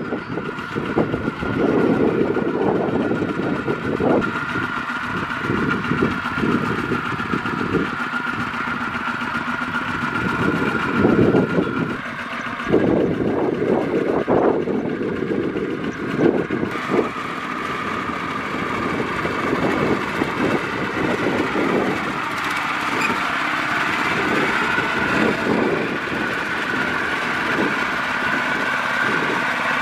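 Kubota DC-70 Plus combine harvester's diesel engine running at work, with a continuous rumble that rises and falls and a steady high whine above it.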